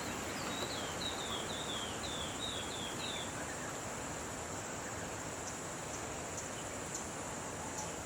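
Natural outdoor ambience: a steady high-pitched insect drone over an even hiss, with a bird giving a quick run of about eight short falling whistled notes in the first three seconds.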